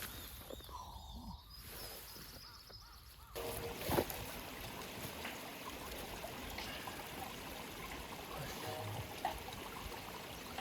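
Mountain stream running steadily. It comes in abruptly about three seconds in, after a quieter opening, with a single sharp tick just after.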